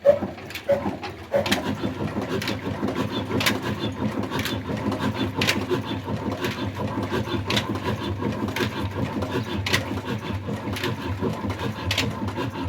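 Old stationary diesel engine catching about a second and a half in and settling into steady running, with sharp knocks about once a second.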